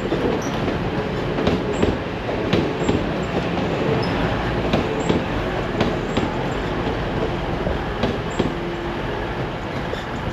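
Passenger train running past close by: a steady rumble of wheels on rails, with scattered sharp clicks as the wheels cross rail joints. It eases off slightly near the end.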